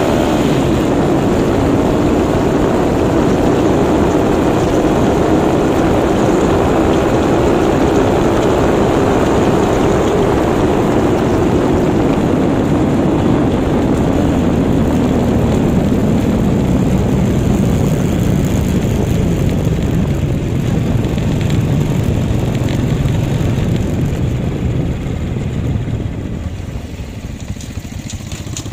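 Single-cylinder four-stroke Honda XRM125/RS125 motorcycle engine, bored to 57 mm with a stage 2 cam, stock carburettor and a Raider 150 exhaust, running steadily under way. Near the end the engine note drops and quietens as the bike slows to a stop.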